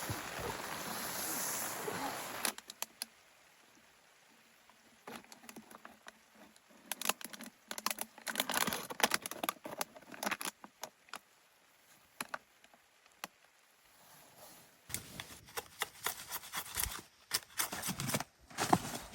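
Steady rain falling, cut off abruptly about two and a half seconds in. Then scattered small clicks and crackles, growing louder and busier near the end.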